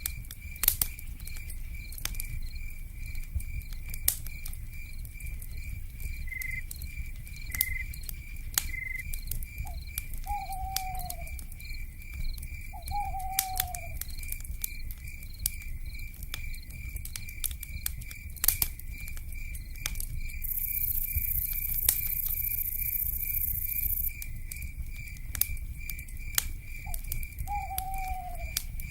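Night forest ambience over a crackling fire: sharp pops and clicks from the burning wood over a low rumble, with an insect chirping in a steady fast pulse throughout. An owl gives three short falling calls, and a high insect buzz comes in briefly about two-thirds through.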